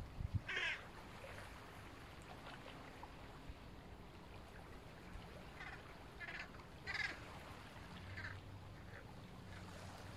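Several short bird calls, one about half a second in and a cluster of four or five later on, over a faint steady low hum.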